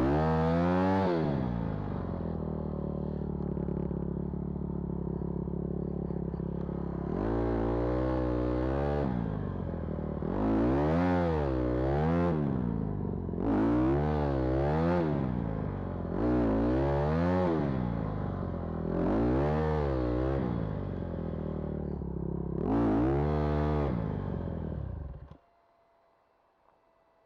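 Vehicle engine revved again and again in short surges, falling back between them, as the vehicle is stuck in snow; the engine is switched off about 25 seconds in.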